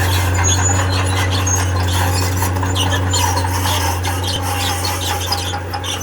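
Tracked earthmoving machine working: a steady low engine drone with repeated squeaks and scraping from its steel tracks.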